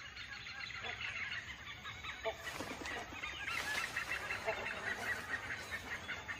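Forest birds calling: a continuous dense chatter of short high calls, with a short lower note every couple of seconds.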